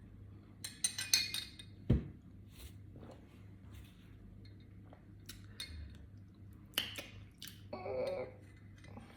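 Scattered light clinks and knocks of glassware and dishes being handled at a meal, with a cluster about a second in and a heavier thump about two seconds in.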